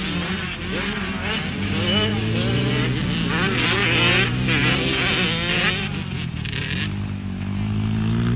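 Several motocross dirt bike engines revving and shifting on the track, their pitches rising and falling over one another.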